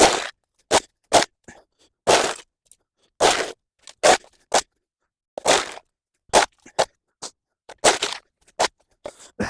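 A tool scraping mud and leaf debris off a path surface in a string of irregular strokes, some short and some about half a second long.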